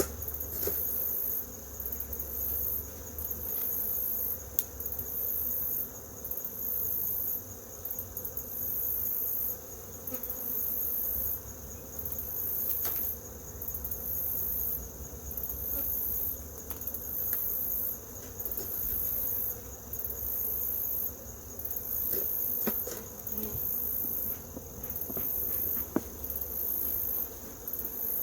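Agitated honeybees buzzing around an opened hive, over a high insect trill that switches on and off about once a second. A few short clicks come through now and then.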